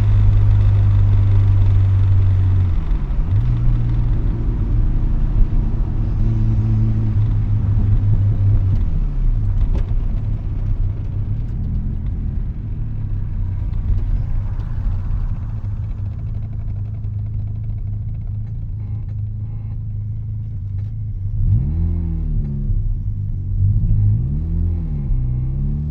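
Mazda RX-7's rotary engine and aftermarket RE Amemiya exhaust, heard from inside the cabin with the windows down as the car drives. There is a loud low drone under load, broken twice by a drop in pitch, then a quieter stretch of steady cruising. Near the end the engine pitch rises and falls twice.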